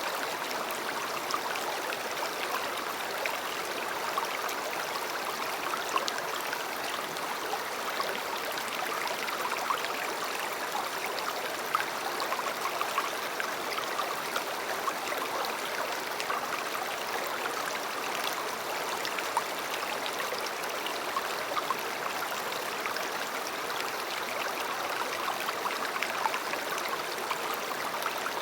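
A river flowing: a steady rush of water, flecked with small splashes and gurgles.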